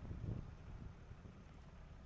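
Wind buffeting the microphone: a faint, gusty low rumble that eases off over the two seconds.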